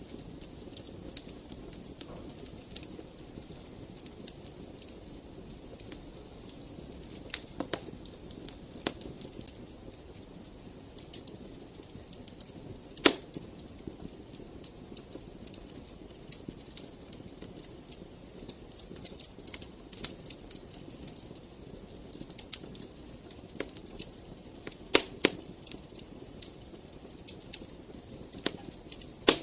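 Fireplace fire crackling: a soft steady hiss under irregular sharp pops and snaps, one loud pop about halfway through and a quick run of pops near the end.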